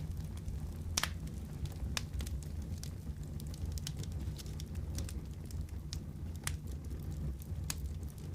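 Wood fire crackling in a fireplace: sharp, irregular pops about once a second over a steady low rumble.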